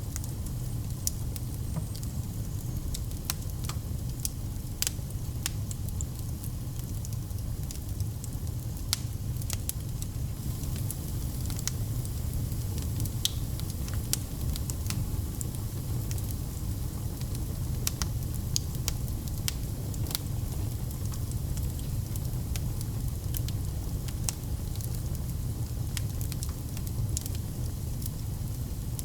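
Fire burning in a fireplace: irregular sharp crackles and pops, several a second, over a steady low rumble of the flames.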